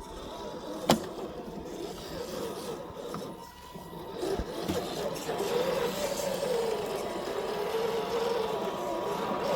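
Electric motor and gearbox of an FMS FJ40 radio-controlled crawler whining, the pitch wavering up and down with the throttle, over scraping noise from the truck on forest ground. A sharp knock about a second in.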